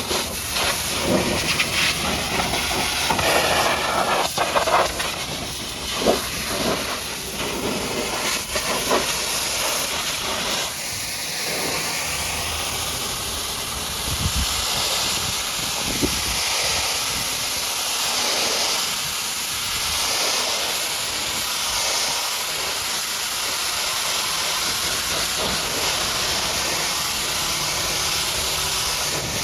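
High-pressure washer jet spraying onto a mud-caked truck: a loud, dense hiss with spattering. Partway through it settles into a steadier hiss that swells and fades in slow, even sweeps as the spray moves back and forth.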